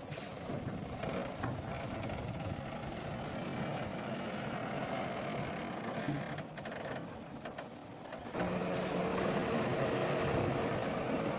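Heavy diesel earthmoving machinery running at work, with the engine sound jumping suddenly louder and steadier about eight seconds in.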